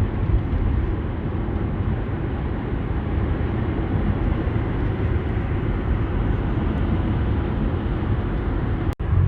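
Steady road noise of a car driving on a freeway: engine and tyre rumble, heaviest in the low end. It cuts out for an instant near the end.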